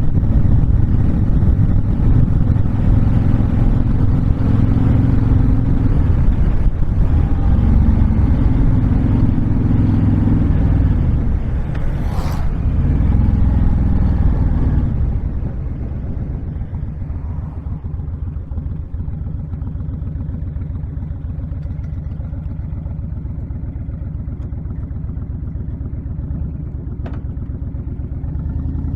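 Honda VTX1300's V-twin engine running at road speed with wind noise, then slowing with falling engine pitch and a sharp click about halfway through. It then settles into a steady, quieter, pulsing idle.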